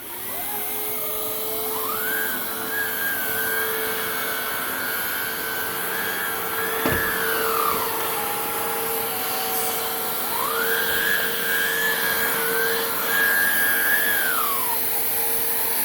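Hoover React cordless vacuum cleaner switched on and running with a steady hum. A higher whine rises about two seconds in, drops back about halfway through, and rises again for a few seconds near the end. There is one brief knock about seven seconds in.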